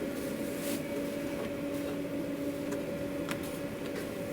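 Steady mechanical hum of equipment running in a food truck kitchen, holding two constant pitches, with a few light clicks and knocks.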